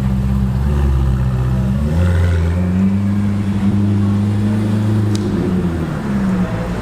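Ferrari F8 Spider's twin-turbo V8 running at steady revs, its note shifting about two seconds in and easing off near the end.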